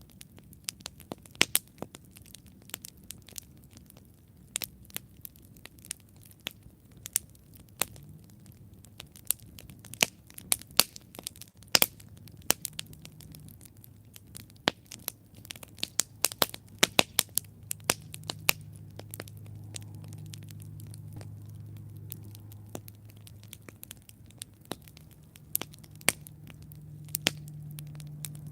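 Wood campfire crackling, with many irregular sharp snaps and pops. A low steady hum comes up in the second half.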